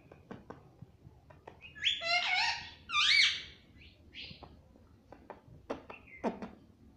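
Indian ringneck parakeet vocalising: two loud calls with swooping pitch about two and three seconds in, among softer clicks and short chirps.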